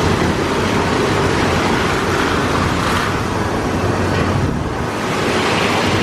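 Mark VII SoftWash XT in-bay automatic car wash running: a steady rush of water spray over a low machine hum.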